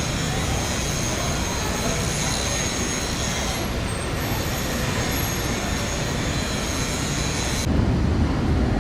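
Running noise of a moving vehicle: a steady low rumble with thin high-pitched squealing tones over it. Near the end the squeal cuts off suddenly and the low rumble gets louder.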